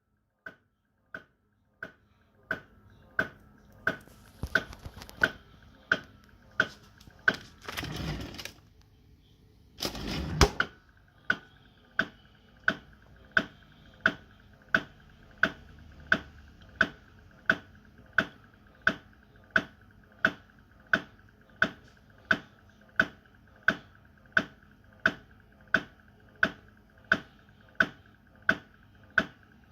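Panasonic NR-E402U refrigerator's automatic ice maker mechanism knocking over and over with a ringing ring, about one knock every 0.7 seconds. The ice mechanism has stuck with the ice tray flipped over and cannot return it. Two louder bursts of noise come about 8 and 10 seconds in.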